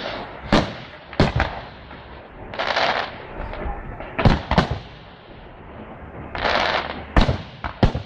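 Fireworks display: about eight sharp bangs of shells going off, several in quick pairs, with a couple of half-second rushing hisses between them.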